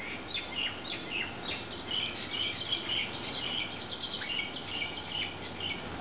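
Birds chirping: a quick, dense run of short high chirps, busiest in the middle, over a steady background hiss.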